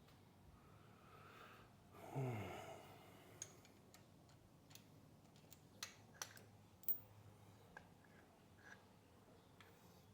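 Scattered sharp clicks from tools and small metal parts being handled, a second or more apart. About two seconds in there is a short sigh that falls in pitch.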